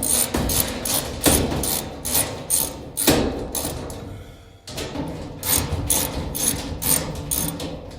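Repeated sharp clicks and knocks, a few a second with a short lull near the middle, from a hand tool driving screws into a dryer's sheet-metal cabinet panels.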